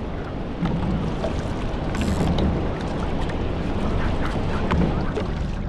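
Wind buffeting the microphone and water rushing and slapping along a Hobie 14 catamaran under sail, with scattered clicks and knocks and a brief hiss of spray about two seconds in.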